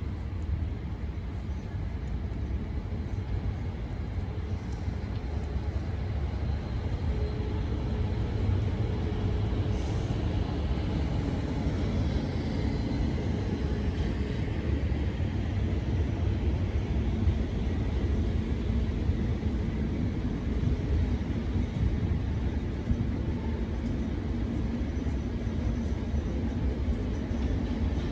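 Electric multiple-unit passenger train rolling slowly through a station platform: a steady, low rumble of wheels and running gear that holds its level throughout.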